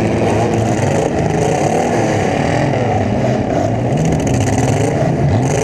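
Demolition derby car engines running and revving, several at once, their pitch rising and falling without a break; loudest is the hood-camera car's own engine close below.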